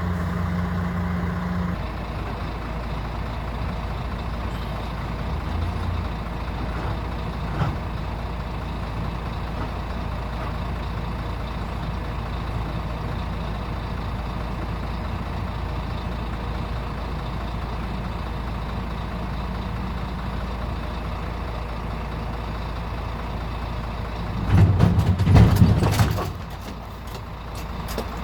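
Heavy truck engine running steadily, with a louder surge lasting about a second and a half near the end.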